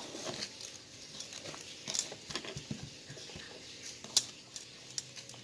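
Faint wet patter and small clicks of a chicken wing being turned in a bowl of beaten egg by hand, with a sharper tap about two seconds in and another about four seconds in.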